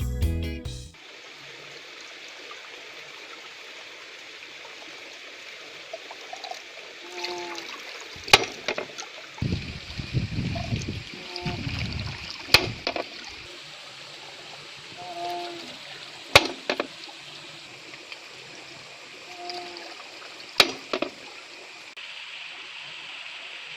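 Automatic sparrow-scaring device in a rice paddy working on its own: a short squeak followed by a sharp knock, repeating about every four seconds, over a steady background hiss.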